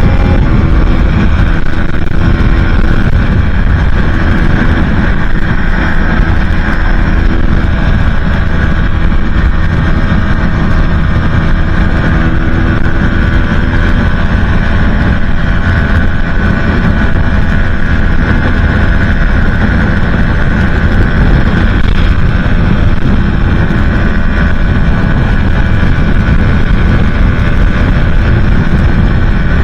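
Aprilia Tuono 125's single-cylinder four-stroke engine running steadily at high revs through an aftermarket Leo Vince exhaust, under heavy wind rumble on the microphone at speed.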